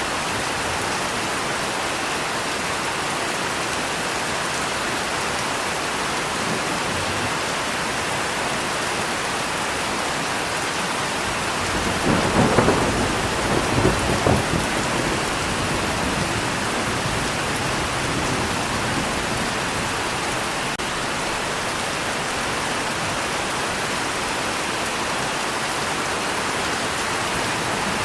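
Steady rain falling, with a crackling thunder rumble about halfway through that lasts two to three seconds and peaks twice.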